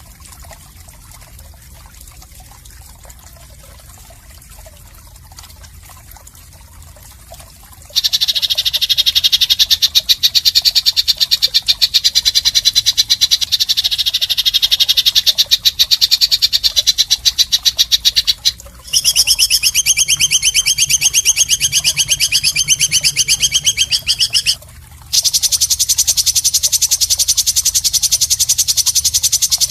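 Faint steady background noise, then about eight seconds in a loud, rapid, rattling trill starts and runs on in long unbroken bouts, stopping briefly twice. The trill is a masteran recording of a harsh animal call used as song material for songbirds.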